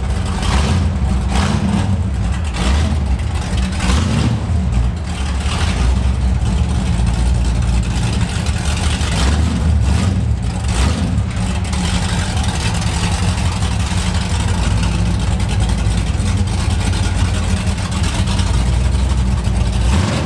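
Big V8 muscle car engine running loudly at a steady idle, with several short blips of the throttle in the first half and again around the middle.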